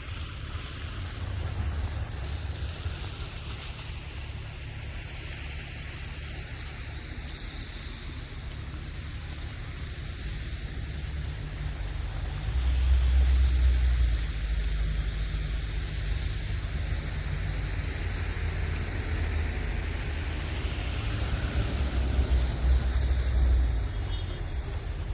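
Storm wind buffeting the microphone, a low gusting rumble that swells loudest about halfway through and again near the end.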